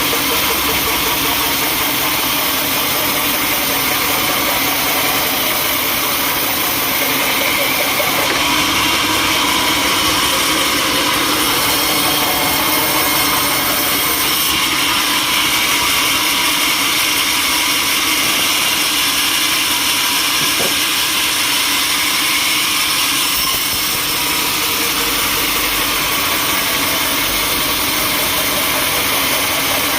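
Sawmill machinery running steadily: a loud, even machine noise with no pauses.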